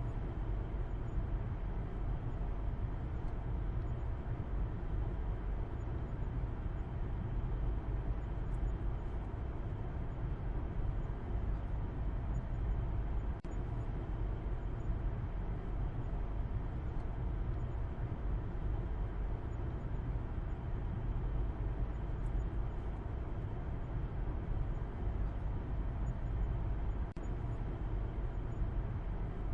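A car being driven at steady speed: a continuous low rumble of engine and road noise, strongest in the bass, with no change in pitch.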